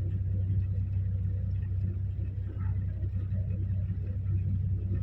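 An engine running steadily, a low even hum that holds one pitch throughout.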